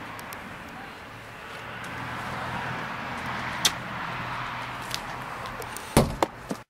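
Steady outdoor background noise, a hiss with a low hum and a few faint clicks. A sharp click about halfway through, then a heavy thump and a couple of knocks near the end.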